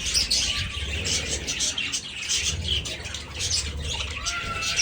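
A flock of budgerigars chattering and chirping together, many rapid overlapping calls with no break, over a low rumble.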